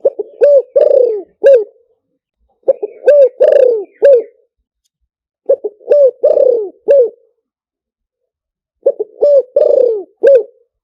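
Spotted dove cooing in four phrases, one about every three seconds. Each phrase is a few short coos and one longer falling coo. This is a decoy-bird call of the kind used to lure wild spotted doves.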